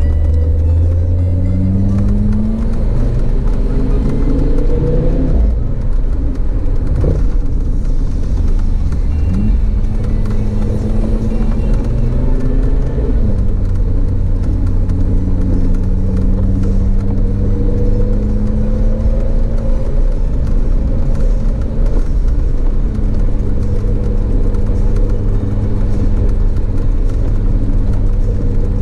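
Audi TT RS's turbocharged five-cylinder engine heard from inside the cabin. In the first dozen seconds the revs climb and drop several times as it shifts up through the gears, then it holds a steady drone at constant speed.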